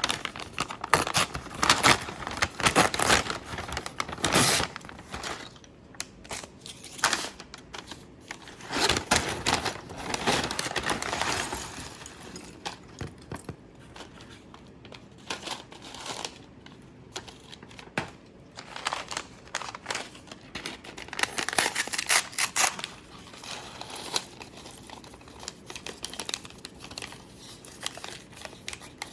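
Plastic packaging crinkling and tearing in irregular bursts, as a Lego Technic set's parts bags are handled and opened.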